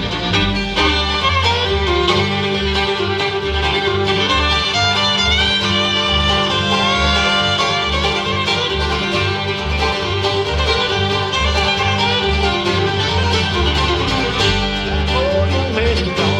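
Bluegrass band playing an instrumental break with no singing: fiddle, banjo, guitar and mandolin over a steady plucked upright bass.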